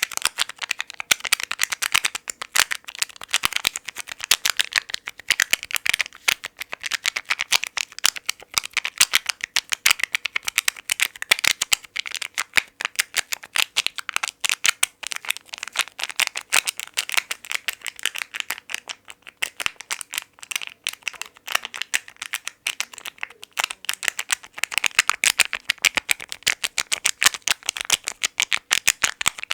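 Rapid, dense fast tapping on fast-food packaging, the many quick light taps running together into a continuous clatter.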